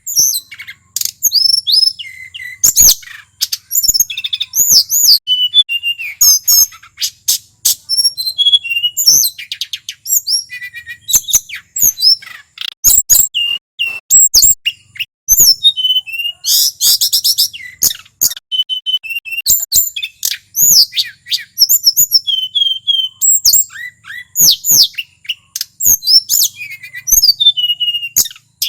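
A male tledekan gunung singing non-stop: a fast, varied run of sharp chirps, sweeping whistles and quick trills with brief pauses between phrases.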